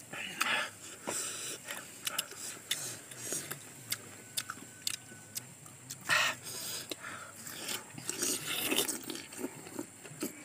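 Two people biting and chewing raw star fruit close to the microphone: a string of irregular short crunches and mouth noises, with one louder burst about six seconds in.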